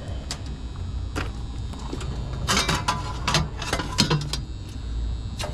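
Metal tools and parts handled and knocked together in a run of clicks and clatter, densest a couple of seconds in, over a steady low rumble.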